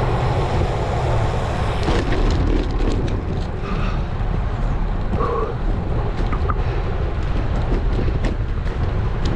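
Wind rushing over a GoPro action camera's microphone on a moving road bike: a steady low rumble mixed with tyre and road noise, with scattered light clicks.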